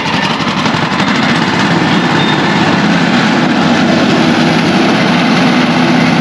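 Motor-driven sugarcane juice crusher running steadily, with a rapid engine-like flutter.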